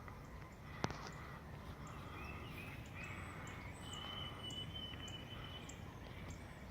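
Faint calls of small birds: thin, high chips repeating every half second or so, with a held whistle about four seconds in. A single sharp click comes about a second in.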